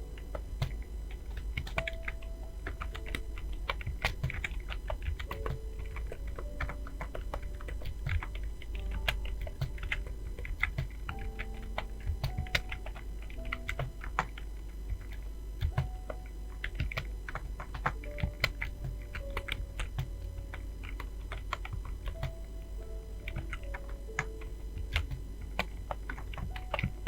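Fast typing on a computer keyboard: a dense, uneven stream of key clicks, several a second, with soft background music notes under it.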